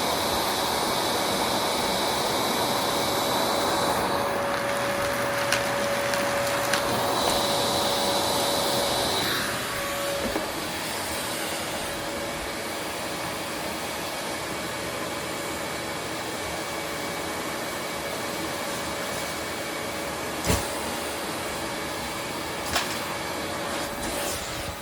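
Vacuum cleaner running steadily with a thin whine. About ten seconds in it turns a little quieter and duller, and a few sharp knocks sound over it.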